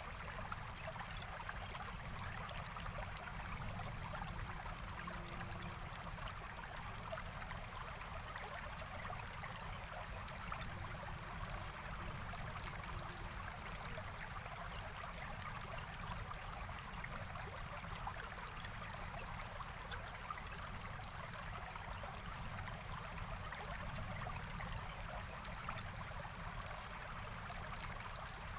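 Forest stream flowing and trickling steadily, an even rush of water.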